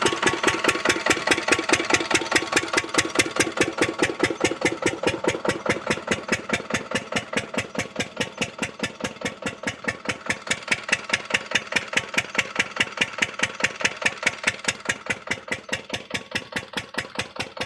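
Diesel engine driving an irrigation water pump, running steadily with an even chugging beat of about five strokes a second.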